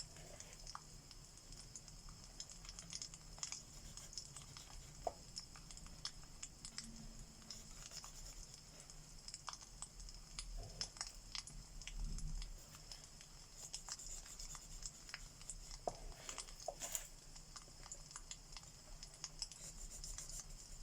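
Wood fire crackling, with scattered sharp pops over a steady low hiss, mixed with the faint scratch of alcohol markers stroking across paper.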